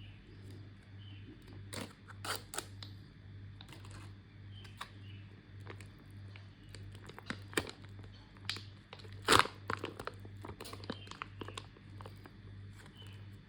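Plastic ration packaging being handled, crinkling and tearing in short irregular crackles, with the loudest burst about nine seconds in. A steady low hum runs underneath.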